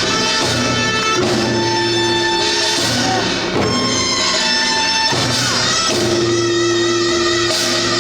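Korean traditional folk music for the Jindo drum dance: long held melody notes, some sliding in pitch, over repeated drum strokes.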